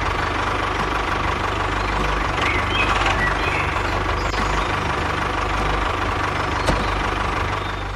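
An engine or motor running steadily with a rapid, even chatter and no change in speed.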